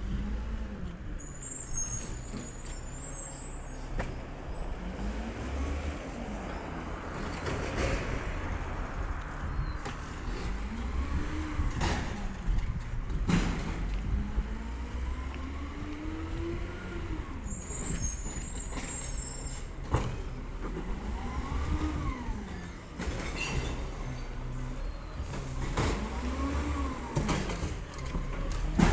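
Diesel engine of a Peterbilt 320 side-loader garbage truck revving up and settling back again and again, every few seconds. Scattered clanks and knocks come with it, and there are two short air hisses, about a second in and again about 17 seconds in.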